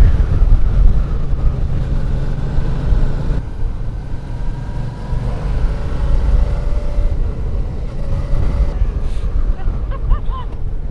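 Motorcycle engine and heavy wind rush heard through a helmet microphone while riding. The engine note rises and falls gently with the throttle.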